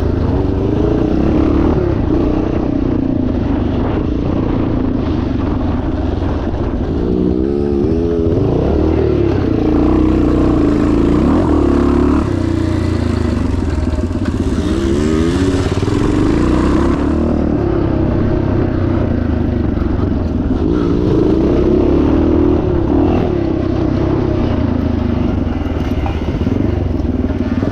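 Single-cylinder four-stroke engine of a 1977 Yamaha TT500 dirt bike running hard off-road, its pitch climbing and dropping several times as the rider rolls on and off the throttle and shifts, with rattling from the bike over rough ground.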